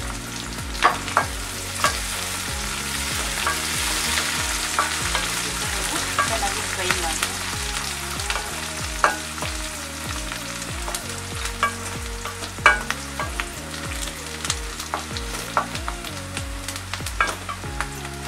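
Sliced onions and curry leaves shallow-frying in oil in an iron kadai, with a steady sizzle and irregular clicks and scrapes as a wooden spatula stirs them against the pan. Soft background music plays underneath.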